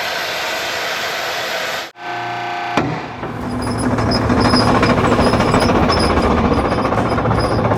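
Heavy diesel machinery running in short clips cut one after another: a rough steady running sound, with a loud, harsh stretch over a steady low drone making up the last part.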